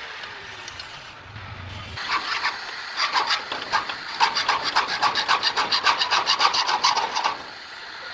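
A hand-held arc saw cutting with quick, even back-and-forth strokes, about six a second, starting about two seconds in and stopping suddenly near the end.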